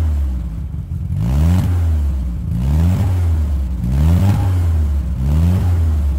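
1098cc BMC A-series petrol engine being blipped on the throttle, revving up and dropping back about once a second, five or so times, over a rough, loud running note. It runs on newly fitted electronic ignition with the timing not yet set, and the owner puts the rough sound down to it having only half an exhaust with a single silencer can.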